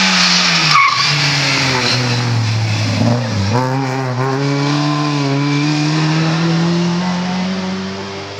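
Lada 2107 rally car's engine under hard driving: its pitch drops sharply about a second in and again around three seconds in, as on gear changes, then climbs steadily under acceleration and holds near the end, over a constant rush of tyre and road noise.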